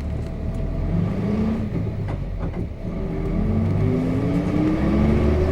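Nissan Diesel FE6 inline-six diesel engine of a bus with a five-speed manual gearbox, heard from inside the bus while it pulls away. The engine revs up briefly, breaks off for a gear change about two seconds in, then climbs steadily in pitch again in the next gear.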